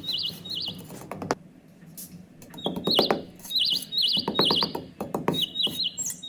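Repeated high bird-like chirps in short runs, over a soft background track, with scattered sharp clicks and knocks. The chirps repeat in the same shape each time, like a looped sound effect rather than a live bird.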